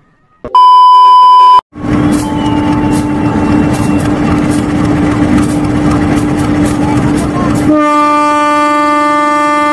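Diesel-hauled passenger train passing close by: a loud rumble with a steady tone and regular clicking of wheels over rail joints. Near the end the locomotive's horn sounds a loud chord.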